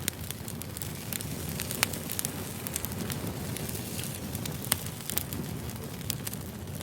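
Burning firewood crackling: irregular sharp pops and snaps over a low, steady rumble.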